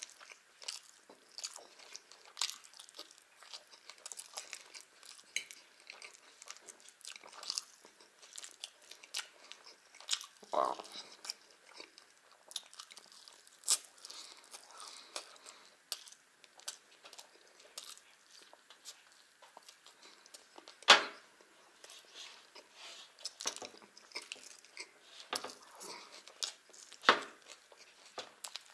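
Close-up chewing and biting of fried chicken and Olivier salad: wet mouth sounds with small crunches and irregular short clicks. Two sharper, louder clicks stand out, one about two-thirds of the way through and one near the end.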